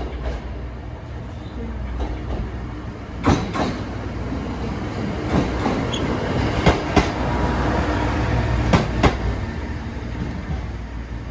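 ET122 diesel railcar running past along the platform: a low drone that swells as it comes alongside, with pairs of sharp clacks from its wheels passing over rail joints, then easing as it moves away.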